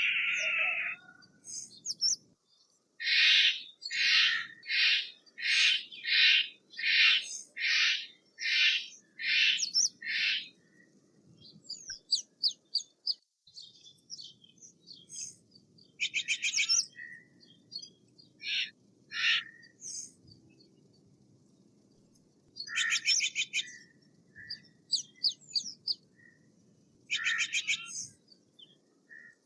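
Steller's jay calling: a steady run of about nine harsh calls, then scattered shorter raspy calls and chirps.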